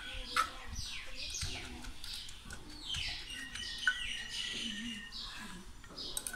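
Birds chirping in repeated short, falling high notes, over a few dull knocks of a wooden pestle pounding green papaya salad in a clay mortar.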